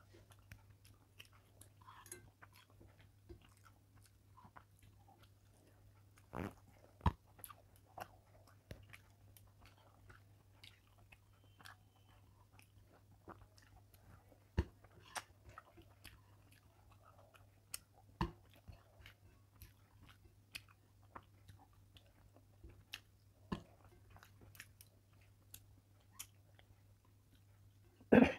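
Close-miked, quiet chewing and mouth sounds of someone eating rice by hand, with scattered small clicks and a louder knock near the end, over a faint steady low hum.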